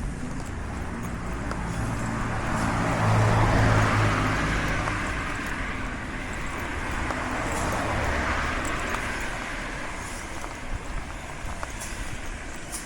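Road traffic: cars passing close by, their tyre noise and engine hum swelling as each goes past. The loudest pass comes about three seconds in and a second one about eight seconds in.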